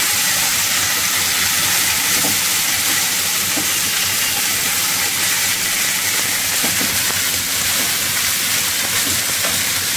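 Boiled potato and vegetable pieces sizzling steadily in a little oil in a non-stick kadai as they are stirred with a spatula, lightly frying.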